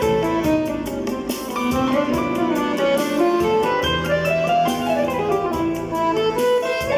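Instrumental music from an accordion fitted with a MIDI system: a melody line over sustained bass notes and a steady drum beat.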